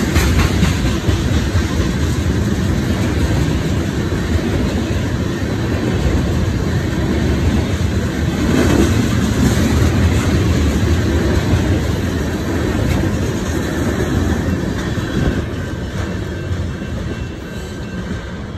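Freight train of tank cars rolling past close by: a steady noise of steel wheels running on the rails, easing off near the end.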